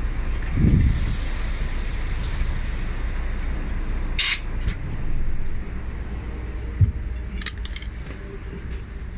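A vehicle engine idles steadily, with a low thump just after the start, a short sharp hiss of released air about four seconds in, and a few light clicks and a knock later on.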